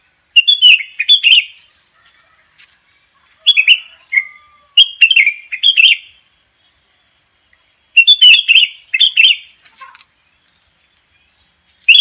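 Sooty-headed bulbul (kutilang) singing in four short bursts of quick, bubbly whistled notes, with pauses of a second or two between them.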